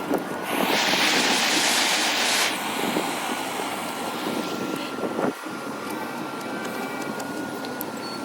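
A steady whooshing machine noise with a faint high whine running through it. A brighter hiss joins for about two seconds near the start. The sound cuts off suddenly near the end.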